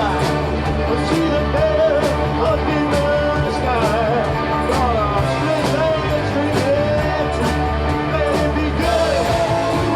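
Live rock band playing a song with electric guitars, bass and drums, a voice or lead line wavering over a steady beat, with no pause.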